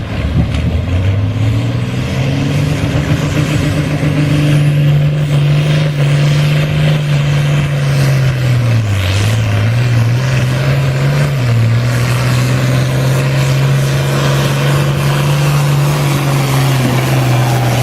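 Farm tractor engine running hard under heavy load as it pulls a sled down the track. It climbs to speed in the first couple of seconds, then holds a steady note that dips briefly about nine and eleven seconds in.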